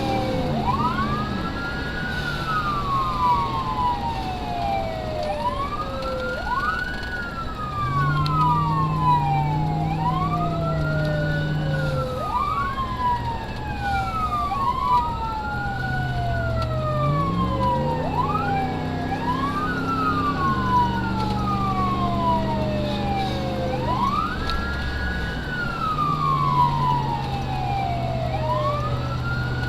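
Emergency vehicle siren on a wail, the pitch sweeping up and down about every five or six seconds, with a second wail running out of step with it. Underneath, the vehicle's engine note rises and drops as it speeds up and shifts.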